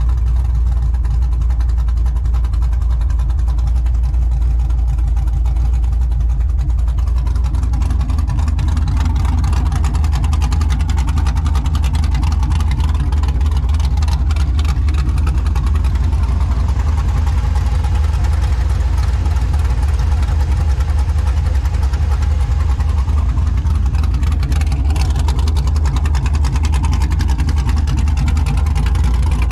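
Engine and exhaust of a 2000 Chevrolet Silverado's cammed 5.3-litre LM7 V8 with long-tube headers, running loud and steady. The sound grows fuller about seven seconds in.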